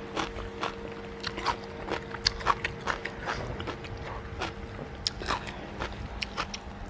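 Close-miked chewing of a mouthful of food, with irregular wet mouth clicks and smacks a few times a second.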